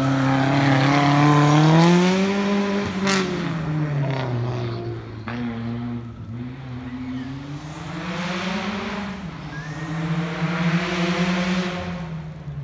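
Four-cylinder engine of a first-generation Mazda MX-5 Miata race car accelerating hard past and up the hill: the revs climb, drop at each upshift and climb again, loudest about two seconds in and fading as the car pulls away.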